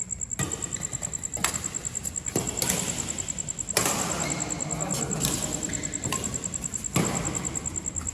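Ball struck back and forth in a doubles rally: a string of sharp hits at uneven gaps of about one to three seconds.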